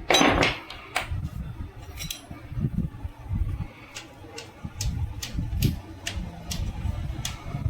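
Metal gearbox parts of a Royal Enfield Bullet, shafts and gears, clinking and tapping as they are handled during the strip-down: a sharp clink at the very start, a couple more about a second apart, then a run of light ticks in the second half.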